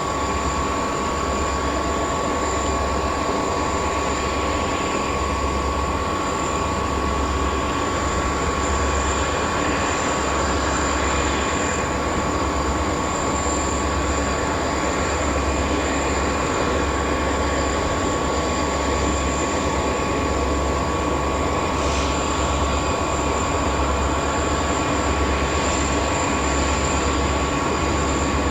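Freight train running, a steady rumble with a thin constant tone over it.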